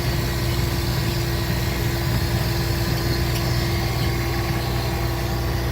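Vehicle engine idling steadily, with an even hum and a steady tone over it.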